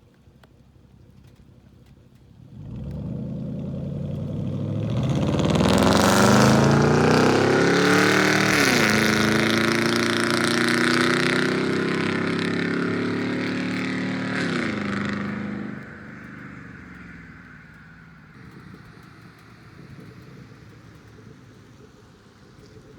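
Chevy 5.3 L V8 through straight-piped true dual exhaust with no mufflers or resonators, accelerating hard: the engine note climbs, drops abruptly at two upshifts, then fades away.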